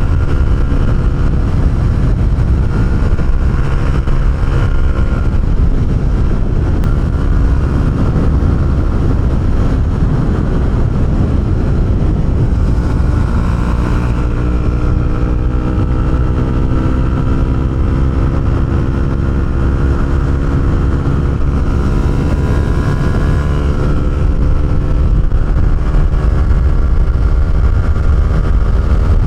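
Honda CB125R's single-cylinder engine running through an Arrow aftermarket exhaust while the bike is ridden, its pitch climbing slowly in the second half as the bike accelerates.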